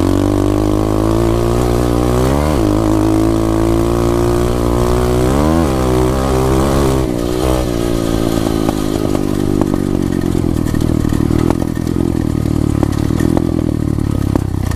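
SSR 125 pit bike's single-cylinder four-stroke engine revving up through the gears under acceleration, the pitch rising and then dropping sharply at two upshifts in the first six seconds. After one more rise the revs fall away and the engine runs lower and rougher, where the shift into fourth gear would not go in.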